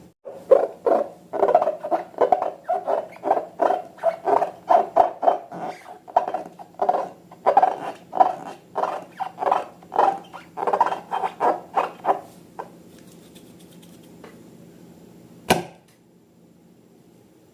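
Slime being squished and kneaded, a run of wet squelches about two a second that stops about two-thirds of the way through. A single sharp click follows near the end.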